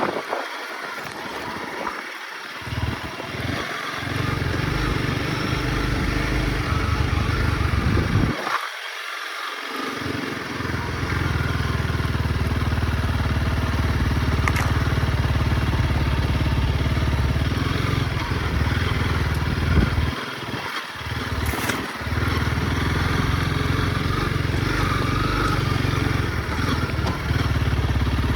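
Honda CRF dirt bike engine running steadily under way. The low drone drops out briefly about a third of the way in and again about three-quarters through.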